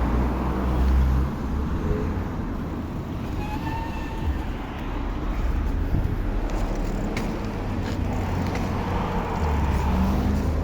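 Road traffic noise: motor vehicles passing, with a steady low rumble and hiss. A brief faint high tone comes about four seconds in.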